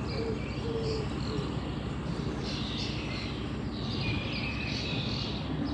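Narrowboat diesel engine running steadily with an even low pulse, while birds chirp and sing repeatedly over it.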